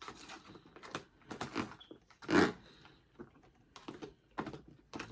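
Close-miked eating sounds: chewing and crunching a mouthful of fresh salad in irregular bursts, the loudest about two and a half seconds in.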